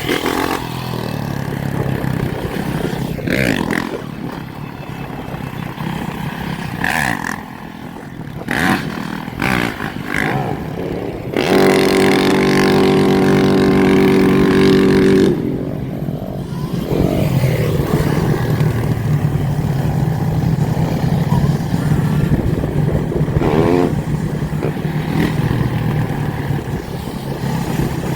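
Motorcycle and dirt bike engines running and revving, with clatter and knocks. About eleven seconds in, a loud steady pitched note is held for roughly four seconds.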